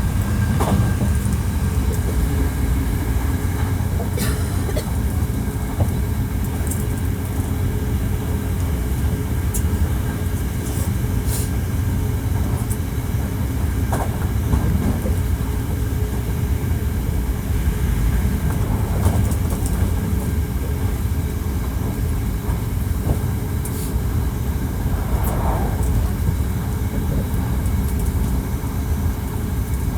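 Hankyu 1300 series electric train with Toyo IGBT-VVVF traction equipment, heard from inside a car while running at speed. A steady low rumble of wheels on rail, with faint steady tones and scattered light clicks.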